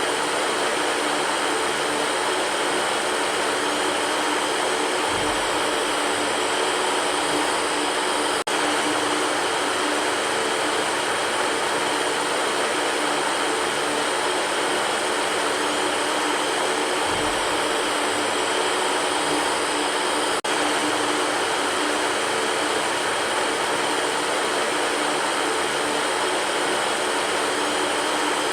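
Electric fan running steadily: an even whooshing rush of air over a low, steady motor hum, with two faint ticks about twelve seconds apart.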